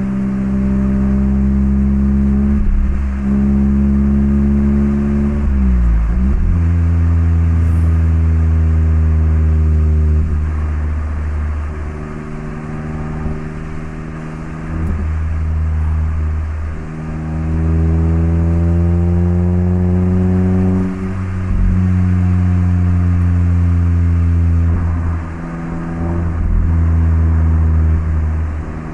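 Mazda MX-5 (ND) 1.5-litre four-cylinder engine through an HKS Legamax Sports aftermarket exhaust, driving through the gears. The engine note climbs under throttle and drops at each of several gear changes, with a quieter light-throttle stretch in the middle.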